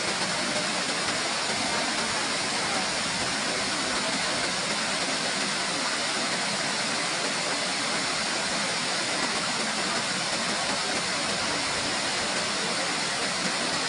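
Bu Sra Waterfall's water falling and rushing, a steady, even roar of white water.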